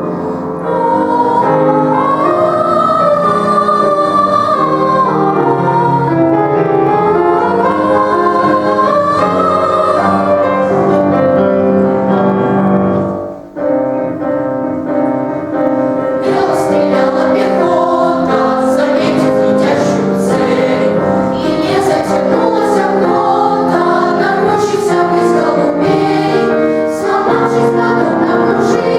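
Boys' choir singing in unison over a piano and backing accompaniment. The music drops out briefly about halfway through, then comes back with a crisp, regular percussive beat under the voices.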